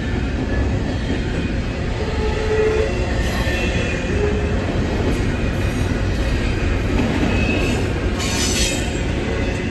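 Passing train: a steady, loud rumble of rolling railcars with brief high wheel squeals and a harsher screech about eight seconds in.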